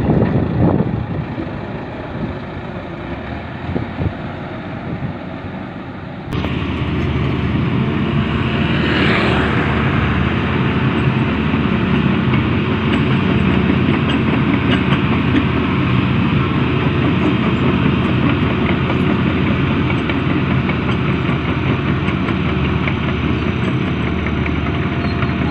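Diesel engines of heavy construction machinery running as the machines drive along a road. The sound steps up suddenly about six seconds in and then holds steady and louder.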